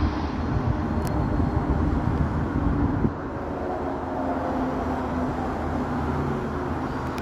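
Passenger train rumbling over the tracks as it pulls away. About three seconds in the rumble drops off suddenly, leaving a quieter steady hum with faint held tones.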